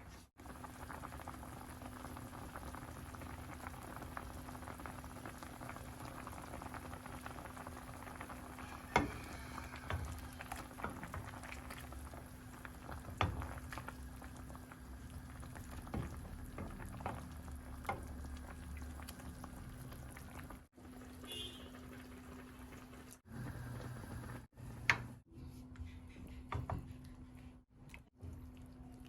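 A pot of fish soup (tinolang isda) boiling steadily, with a few sharp clicks and knocks scattered through, the loudest about nine seconds in and about twenty-five seconds in.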